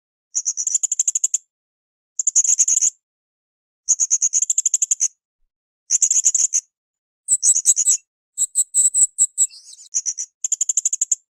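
Srindit (hanging parrot) calling in a series of high, rapid trills, each phrase about a second long and repeated roughly every one and a half to two seconds. Around the middle the phrases come closer together, with a few faint clicks under them.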